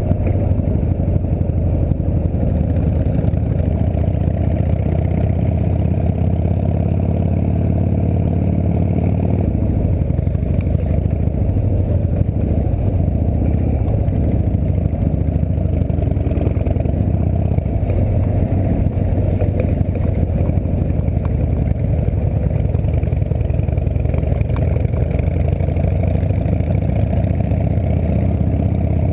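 Harley-Davidson V-twin engine of a chopper trike running steadily while riding along in traffic, a continuous low rumble.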